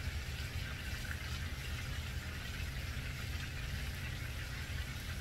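Chicken thighs frying in a pan, a steady sizzling hiss over a low steady hum.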